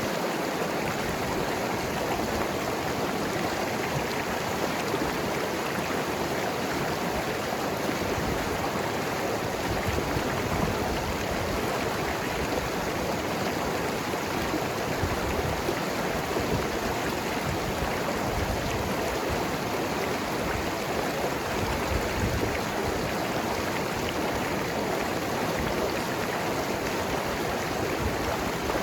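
Mountain river running over rocks: a steady, continuous rushing and gurgling of water.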